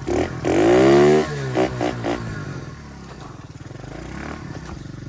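Dirt bike engine being revved: one long rev that rises and falls about a second in, then a few quick throttle blips, after which it settles to a steady idle.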